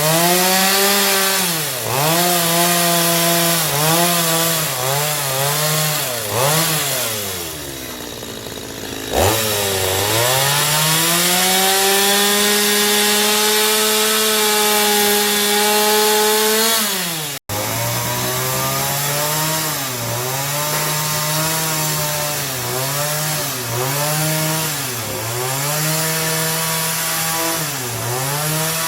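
Electric saw cutting timber. The motor's pitch dips each time it bites into the wood and recovers between cuts. About 7 s in it spins down, restarts with a rising whine about 9 s in, and runs steady for several seconds before cutting again.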